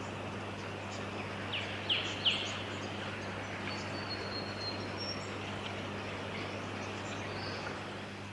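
A sacred kingfisher gives three sharp calls in quick succession, about a second and a half to two and a half seconds in. Fainter high bird notes and a steady low hum sit underneath.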